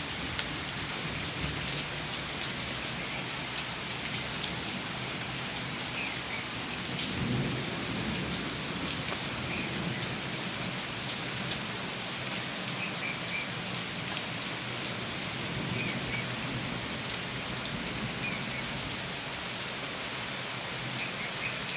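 Heavy rain pouring steadily on a flooded concrete courtyard and trees, with hail falling in it as scattered sharp ticks.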